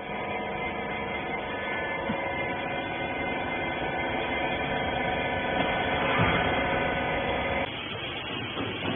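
Horizontal wiper baler's hydraulic power unit running with a steady hum made of several steady tones, cutting off suddenly near the end.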